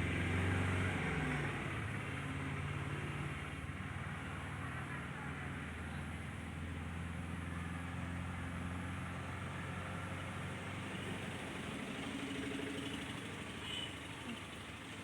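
A motor vehicle's engine running with a steady low hum, loudest in the first second or two and then holding even.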